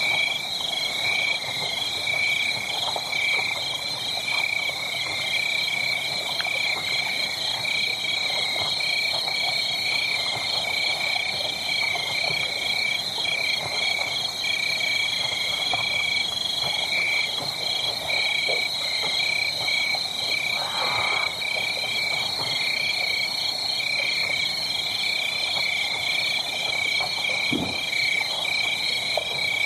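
A steady chorus of rhythmically pulsing, high-pitched animal calls, like a night frog or insect chorus, over a faint crackle of a wood fire.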